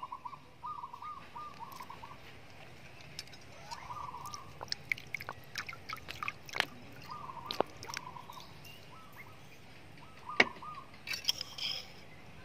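A bird calling over and over, a short warbling phrase repeated every couple of seconds, with higher twittering near the end. Scattered sharp clicks and clinks come through the middle, the loudest about ten seconds in.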